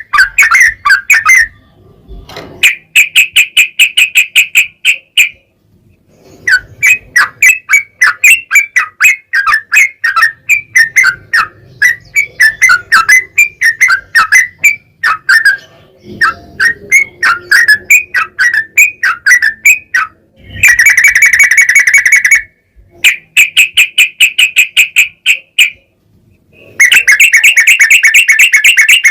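Yellow-vented bulbul (trucukan) singing: long runs of rapid, repeated chattering notes, the long trills that bird keepers call ropel, broken by short pauses.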